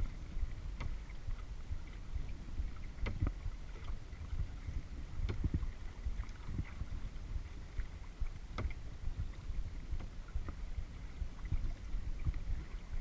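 Paddling a kayak: water splashing off the paddle, with sharp knocks every two to three seconds over a low rumble of wind on the microphone.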